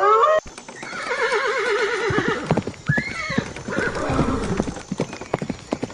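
Horse whinnying: a long wavering neigh that slides down in pitch, then a second shorter call, with hooves clopping repeatedly through the second half. A brief loud burst comes at the very start.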